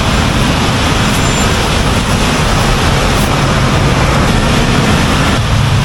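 Steady, loud wind and rain noise on the microphone of a moving motorcycle, with a low rumble of road and engine noise underneath.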